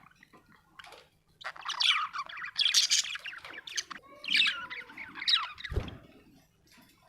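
Budgerigar chattering and warbling in two bursts of quick, fast-changing chirps, the chatter of a happy budgie. A short low thump sounds near the end.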